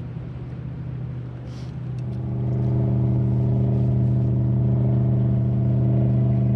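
Motorboat engine running steadily, growing louder about two seconds in and then holding a constant pitch.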